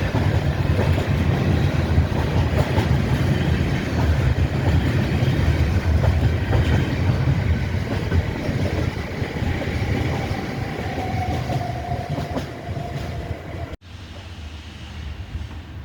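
A train passing close by, its wheels rumbling and clicking over the rail joints, with a faint whine that falls slightly in pitch near the end. The sound cuts off abruptly shortly before the end, leaving a quieter background.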